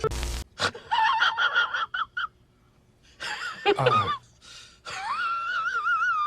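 High-pitched, wavering animal whining: a run of short whines, then a falling cry, then one long warbling whine near the end.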